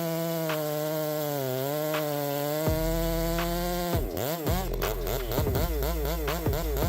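Chainsaw running at high speed, its pitch sagging slightly at times. From about four seconds in, the pitch swings rapidly up and down, a couple of times a second.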